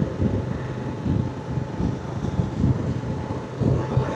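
Motorcycle engine running at a steady cruising speed, with wind buffeting the rider's microphone, so the noise rises and falls in irregular gusts.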